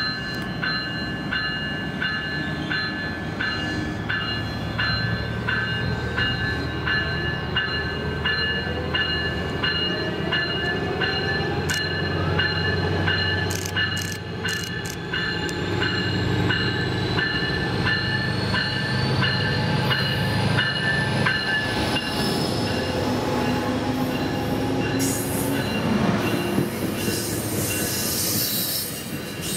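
COASTER commuter train pulling into the station behind its Siemens Charger diesel locomotive: a bell rings about twice a second over the low rumble of the engine and wheels, stopping about three-quarters of the way through as the locomotive draws alongside. A thin whine rises in pitch in the second half, and a hiss comes near the end.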